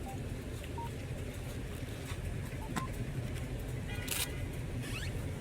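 Steady low rumble of motor vehicles, with a few light clicks and a brief hiss about four seconds in.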